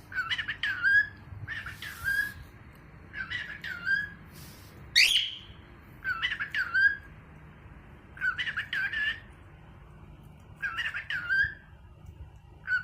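Pet cockatiel giving short whistled calls, eight in all, repeated about every one and a half to two seconds; each is a quick run of rising and falling notes, and about five seconds in one is a single loud rising whistle.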